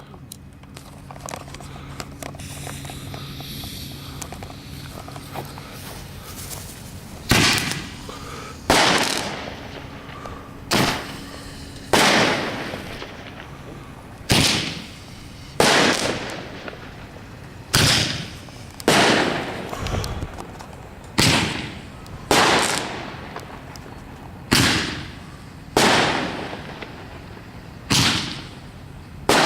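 Multi-shot firework cake firing a long string of loud bangs, about one every second or two, starting some seven seconds in. Each shot trails off in a short decaying rumble.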